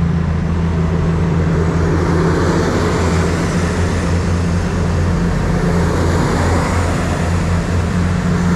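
Diesel train engine running steadily: a deep, constant drone, with a rushing noise that builds after about two seconds.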